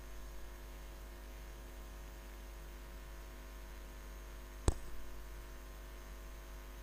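Steady low electrical hum with one sharp click a little over halfway through.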